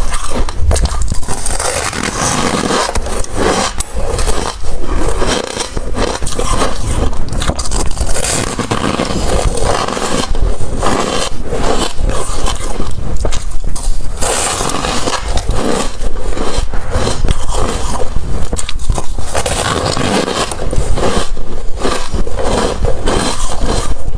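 Ice being bitten and chewed close to the microphone: a dense, continuous run of loud crunching and cracking.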